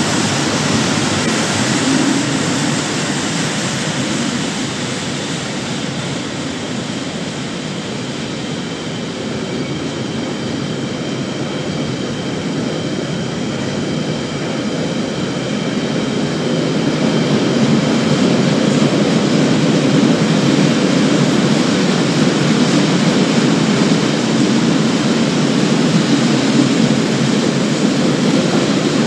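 Freight train of loaded double-deck car-carrier wagons rolling past close by: a steady noise of wheels on rails, easing slightly early on and growing louder again from about halfway.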